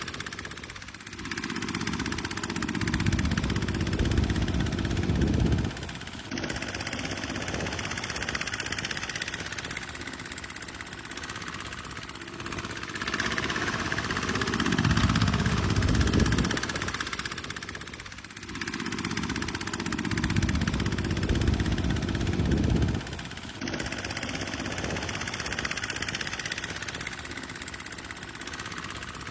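Kubota farm tractor's diesel engine running as it works through a muddy field, growing louder and deeper in long stretches under heavier load. The sound changes abruptly twice, about six seconds in and again near the end.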